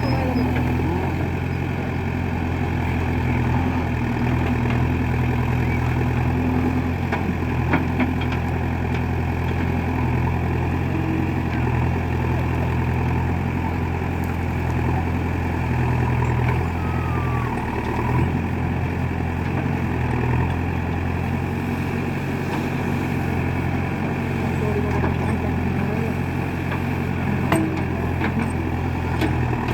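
Heavy diesel engine of earth-moving machinery running steadily at a low, even speed, with a few short knocks over it.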